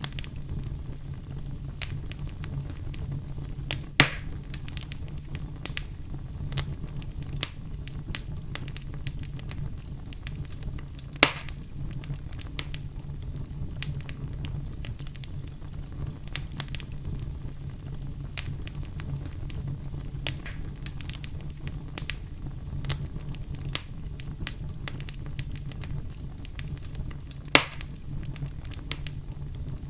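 Wood fire burning in a fireplace: a steady low rumble of flames with frequent small crackles and three sharp, louder pops, about 4, 11 and 27 seconds in.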